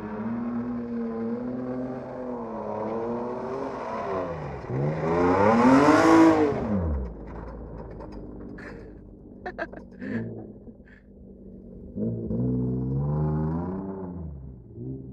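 A dirt-track car's engine revving hard and easing off as it laps, loudest as it passes close by about six seconds in, its pitch rising and then falling away as it goes. It fades into the distance, with a few sharp clicks, then revs up again near the end.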